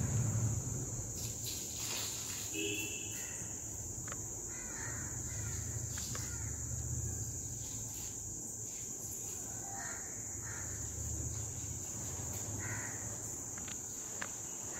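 Birds calling a few short times outdoors over a low rumble, with a steady high-pitched whine throughout.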